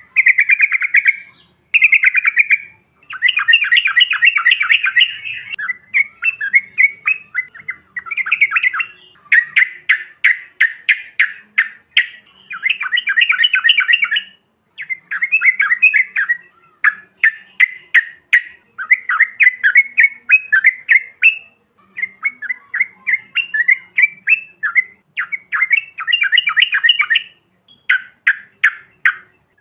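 Yellow-vented bulbuls (trucukan) singing, with loud, bubbly chattering phrases of quick notes lasting a second or two each and brief pauses between them.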